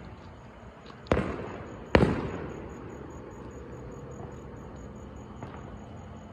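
Two fireworks going off about a second apart, each a sharp bang trailing off in an echo, the second the louder.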